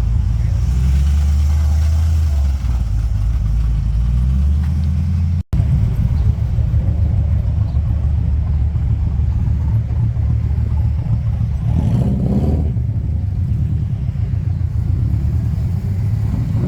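Car engine, most likely a V8 muscle car, running at a deep, steady idle; the sound drops out for an instant about five and a half seconds in, then the idle continues.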